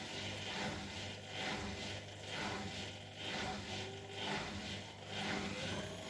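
Bosch Maxx WFL 248Y washing machine running, its drum turning with a whooshing swell about once a second over a steady motor hum. A thin tone rises slightly and holds near the end.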